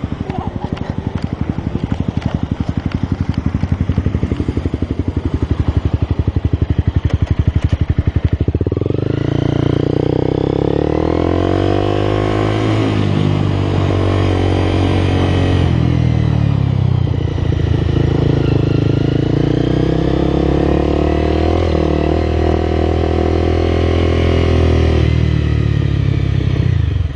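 Motorcycle engine idling with a fast, even beat for about eight seconds, then revving and pulling away, its pitch rising and falling as it runs.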